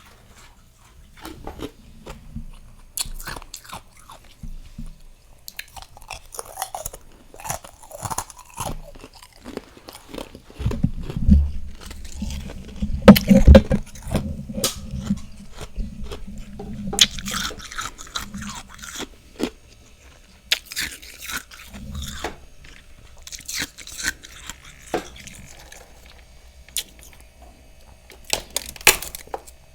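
A person biting and chewing freezer frost close to the microphone: crisp crunching throughout, heaviest and loudest around the middle.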